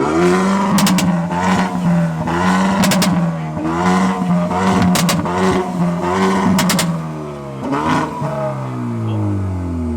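Car engine revved hard again and again, the pitch climbing and dropping with each blip, with several sharp cracks among the revs. Near the end the engine note falls away.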